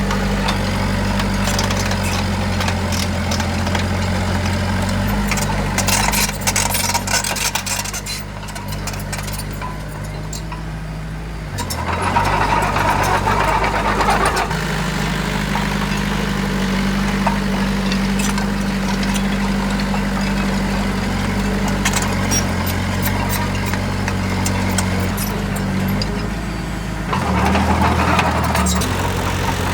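Heavy diesel construction machinery running under load, its engine note changing pitch and dropping back for a few seconds partway through, with scattered metallic clanks and rattles.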